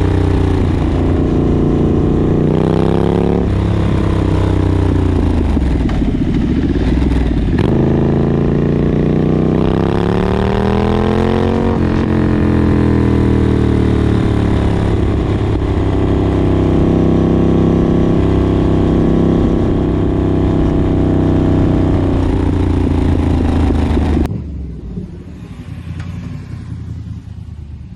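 2019 Triumph Street Scrambler's 900 cc parallel-twin engine running loud through British Customs shotgun slip-on exhaust. The revs rise and fall several times, then hold steady. The sound drops much quieter near the end.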